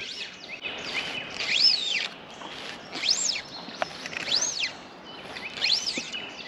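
A songbird singing a repeated phrase of high, arching whistled notes, about five of them, each rising then falling in pitch, over a steady hiss of flowing creek water.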